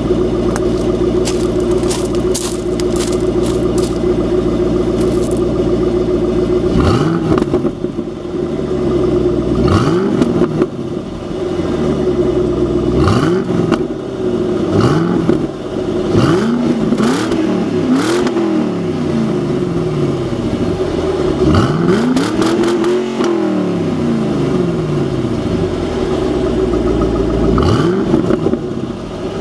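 2007 Mustang GT's 4.6-litre V8, warmed up, idling steadily and then revved repeatedly: about eight blips of the throttle whose pitch sweeps up and falls back to idle, with one longer, higher rev about three quarters of the way through.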